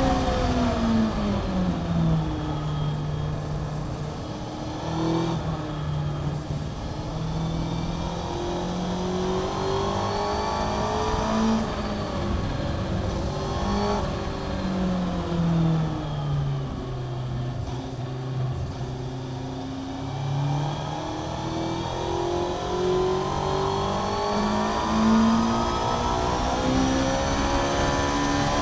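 Honda CBR600F (PC41) inline-four engine through a Mivv aftermarket exhaust, heard onboard at track pace. The revs drop in steps through downshifts in the first couple of seconds, then rise and fall several times with gear changes, and climb steadily near the end.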